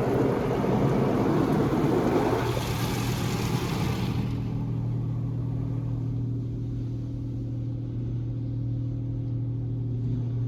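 Inside a car in a touchless automatic car wash: the wash's water spray hits the car and stops abruptly about four seconds in. What remains is a steady low hum.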